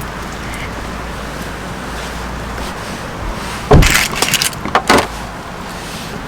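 Steady low background rumble, broken about four seconds in by a burst of loud clattering knocks and another short clatter just before the five-second mark.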